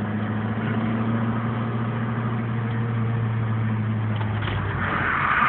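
Car engine running at steady revs, heard from inside the cabin. The engine note drops away about four and a half seconds in, and a louder rushing noise rises near the end.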